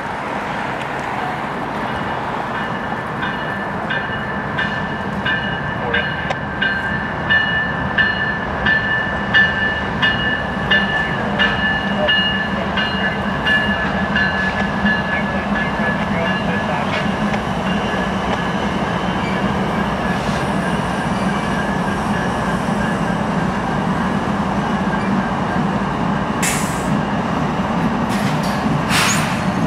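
CSX diesel locomotives rumbling past as they pull a freight train away from the yard. A locomotive bell rings steadily, about one or two strokes a second, for roughly the first half. Near the end come two short, sharp high hisses.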